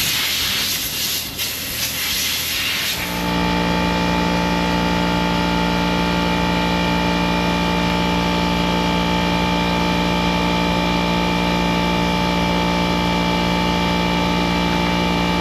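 A hiss of rushing air for about three seconds, then a machine starts and runs steadily at one unchanging pitch.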